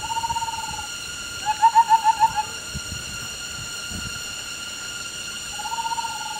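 A bird calling: a short pulsed whistle, then a run of about six quick rising notes, then the pulsed whistle again near the end, over a steady high drone.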